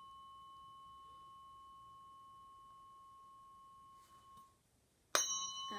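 Tuning forks for Biofield Tuning sound healing, ringing with a steady high tone that slowly fades and is cut off about four and a half seconds in. About five seconds in a fork is struck again with a sharp ding and rings on.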